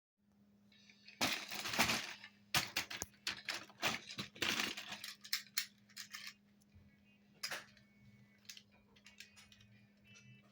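Toy construction vehicles clinking and clattering as they are rummaged and handled in a box, with dense bursts of rattling early on that thin out to scattered clicks. A faint steady hum runs underneath.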